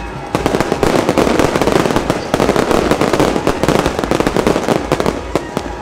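Fireworks going off in a dense, rapid crackle of many sharp cracks, starting about a third of a second in and thinning out near the end.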